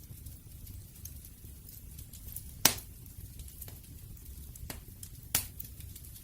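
Wood fire burning with a low steady rumble and scattered crackles, and two loud sharp pops, the first a little under halfway through and the second near the end.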